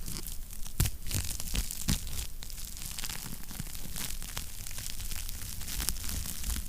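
Wood fire crackling in a fireplace: a steady hiss and low rumble full of small pops, with louder snaps about one and two seconds in.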